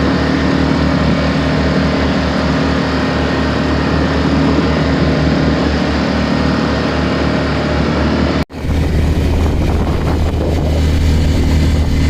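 Sailboat's auxiliary engine running steadily while motoring in a calm, with a regular low throb. About eight and a half seconds in, the sound cuts abruptly to another stretch of steady engine drone.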